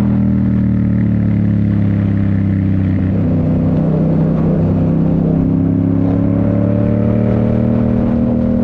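Yamaha MT-07 parallel-twin engine running through a Toce full exhaust under steady riding load. The engine note dips slightly about three seconds in, then rises slowly again.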